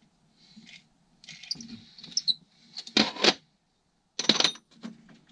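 Small steel bolts and hardware clinking and rattling as they are picked through by hand, with two louder jangling rattles about three and four seconds in.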